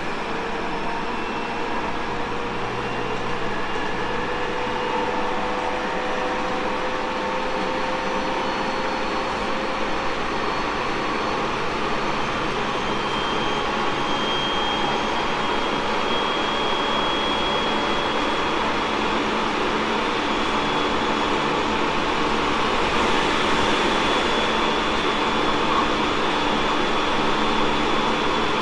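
Tobu 30000 series electric train running, with steady wheel and rail noise and a motor tone that rises slowly in pitch over the first ten seconds or so as the train gathers speed.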